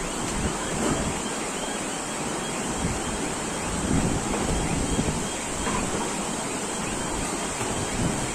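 Rushing floodwater, a steady dense rush, with wind gusting unevenly on the microphone.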